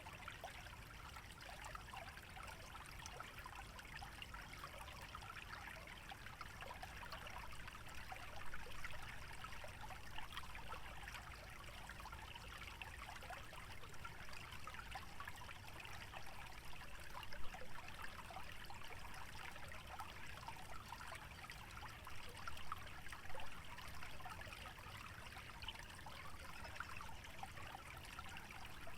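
Small stream trickling and gurgling steadily, with a low rumble beneath and a few brief louder splashes.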